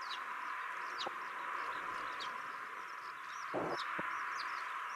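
A bird repeating a short falling chirp about once a second over a steady hiss, with a few low knocks about a second in and near the end.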